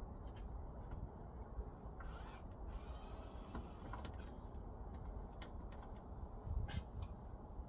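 Scattered clicks and creaks of metal parts and hand tools being worked while a heat pump's roof panel is fitted, with a short scraping noise about two seconds in, over a steady low rumble.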